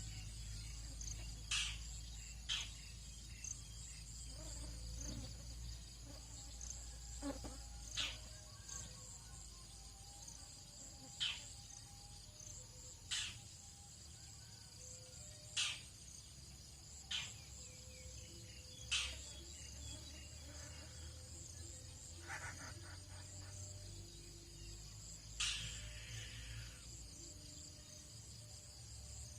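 Tropical dawn ambience: a steady high chorus of insects, broken every few seconds by short sharp bird calls, with a low steady hum underneath.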